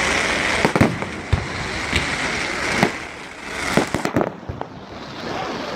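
Fireworks display: a run of sharp bangs, about six in the first four seconds, over a continuous hiss that fades out about halfway through.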